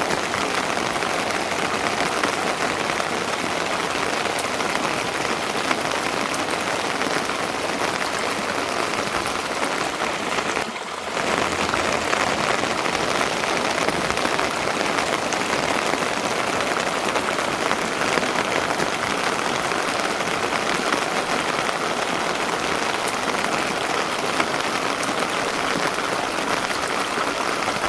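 Steady rain falling, a dense even patter of drops that dips briefly about eleven seconds in.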